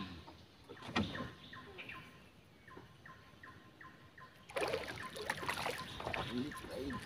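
A bird calling in a quick series of short descending notes, about three a second. A couple of seconds past the middle, a louder stretch of crackling noise takes over for about two seconds.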